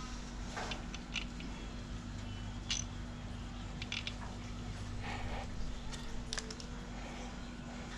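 Scattered light clicks and taps of hand tools and parts being handled during an engine teardown, at irregular intervals, over a steady low hum.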